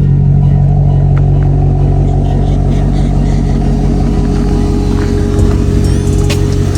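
Maserati GranTurismo's V8 running at a steady engine speed while driving, a loud even drone with no revving.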